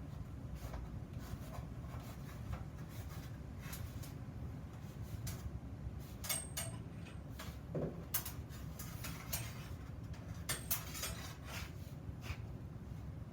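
Scattered light clicks and taps of small iron parts being handled at a workbench, over a steady low hum, with a slightly heavier knock about eight seconds in.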